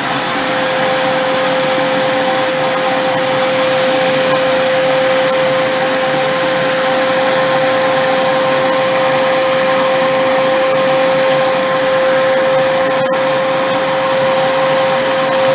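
Corded Hoover upright vacuum running steadily with its hose end sealed by a vacuum gauge for a suction test: an airy rush under a steady motor whine with a high whistle above it. The pitch starts to drop right at the end as the motor is switched off.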